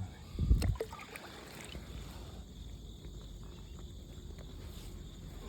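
A dull knock about half a second in, then a faint, steady low rumble of river water moving around a kayak.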